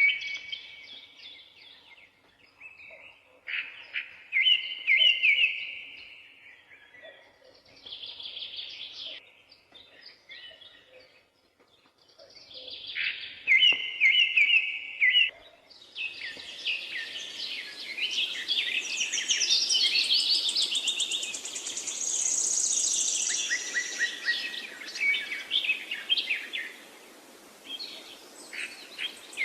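Songbirds singing in short, separate phrases with pauses between them. About halfway through, a steady background hiss comes in under a denser chorus of quick, high chirps.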